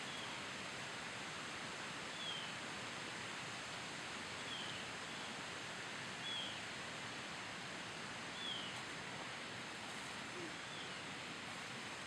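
Outdoor ambience: a steady faint rustling hiss, with a small bird giving short, falling chirps about every two seconds.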